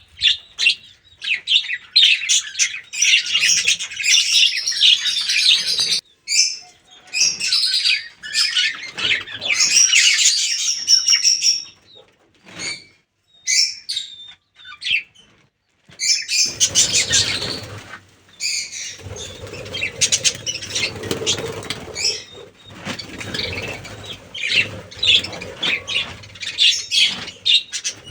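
A colony of budgerigars chattering with rapid high chirps and warbles. The chatter thins out for a few seconds near the middle. A lower rustling noise then joins it for the last third.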